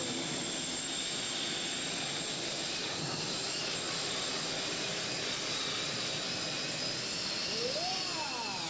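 Steady engine noise from a pulling vehicle, with a constant high whine over it. A short rising-and-falling tone sounds near the end.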